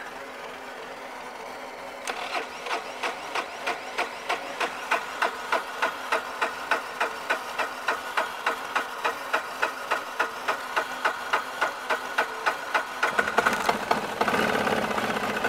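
Polaris diesel ATV's engine being cranked over on the starter in the cold, slow and even at about three compression pulses a second for some eleven seconds. Near the end it catches and starts running.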